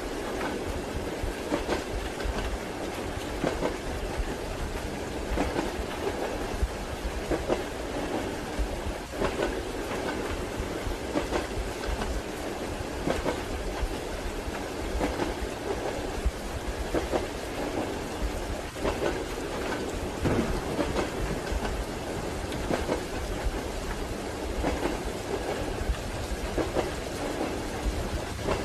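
Rain falling together with a passenger train's wheels clattering over rail joints: a steady hiss of rain under a run of short knocks, with no even beat.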